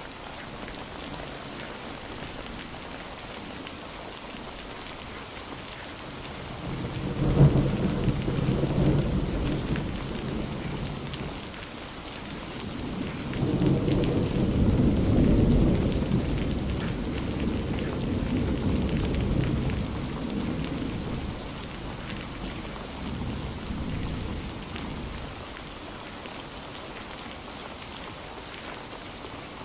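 Steady rain falling, with thunder: a sharp clap about a quarter of the way in that rumbles off, then a longer rolling rumble through the middle and a weaker one that dies away near the end.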